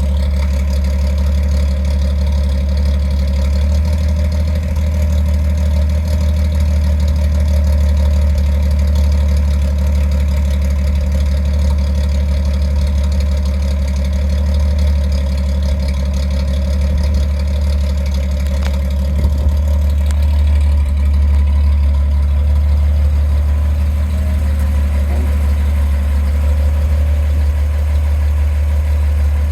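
1956 International fire truck's engine idling steadily, a deep even rumble.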